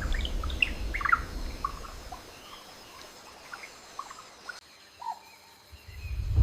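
Birds chirping and tweeting in short, scattered calls, busy for the first couple of seconds and sparse after that. A low rumble fades away over the first two seconds, and another deep low rumble swells up right at the end.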